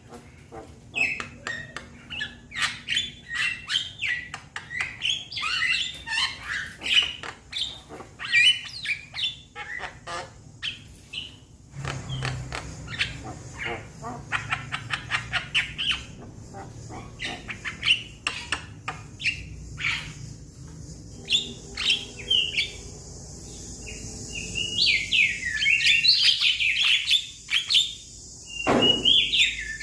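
Young Javan mynas calling: a busy, rapid chatter of harsh clicks and quick whistled notes that grows louder and fuller near the end.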